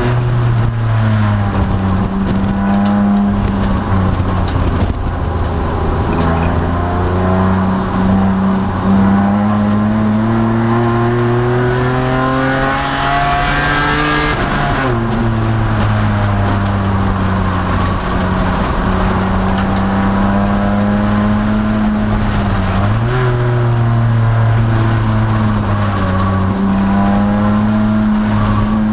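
The V6 engine of a 2002 Nissan Maxima race car, heard from inside the cabin under racing load. Its pitch climbs steadily for about thirteen seconds, drops sharply about halfway and sinks further as the car slows, then jumps back up as it is revved hard again.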